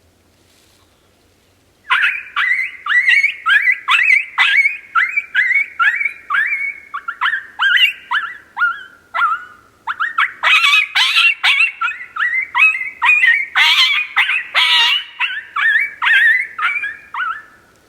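MFK Bunny Bird hand-blown predator call played as coyote pup distress: a rapid series of high-pitched yelps, each dropping in pitch, about two a second, starting about two seconds in. After a short break near the middle the yelps come louder and rougher, with rasp like a hurting pup breaking into a bark.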